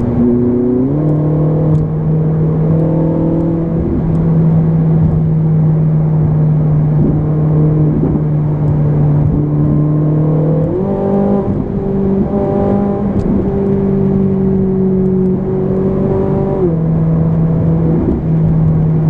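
Ferrari 458 Italia's 4.5-litre V8 heard from inside the cabin while driving, a steady drone that steps up in pitch about a second in and again about eleven seconds in, then drops back about two seconds before the end.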